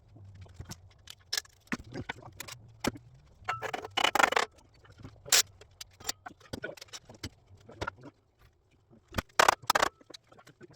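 Metal tools and engine parts clinking, knocking and scraping during an engine teardown: an irregular string of sharp clinks, with louder scraping clatter about four seconds in and again near the end.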